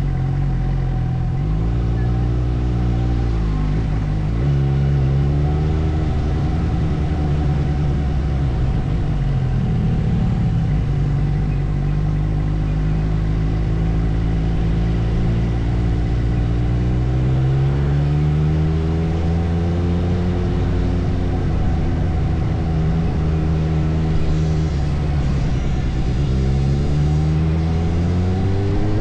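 Suzuki motorcycle engine pulling through city traffic. Its pitch climbs over several seconds as it accelerates, then drops back at each shift or slowdown, over and over.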